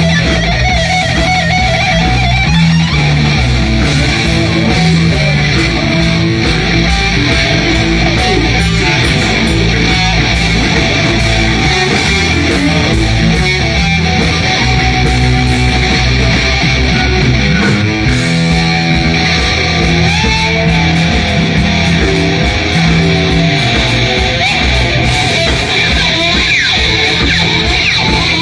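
Blues band playing an instrumental stretch without vocals: electric guitar over a walking bass line, at a steady loud level.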